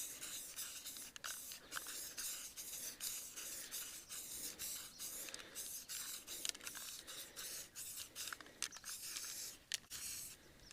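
Repeated short rubbing strokes, a few a second and irregular, easing off near the end.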